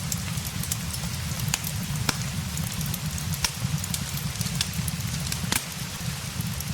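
Steady rain mixed with a crackling fireplace: a continuous hiss over a low rumble, with scattered sharp pops and ticks at irregular intervals. The low rumble eases slightly near the end.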